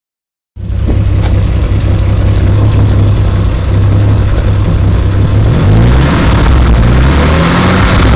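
Ford Barra 240 turbocharged inline-six of an XR6 Turbo running with a ticking noise from down low, while the idle is rough. About five and a half seconds in the revs rise.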